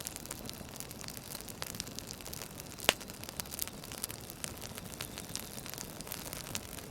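Campfire crackling: a steady hiss with frequent small pops, and one sharp, loud pop about three seconds in.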